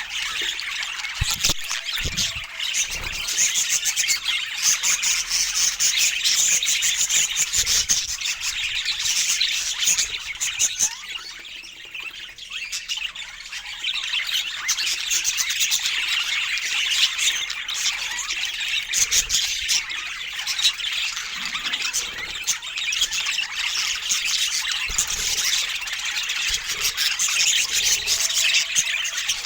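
Budgerigar chatter: continuous warbling, chirps and squawks, easing off briefly about eleven seconds in.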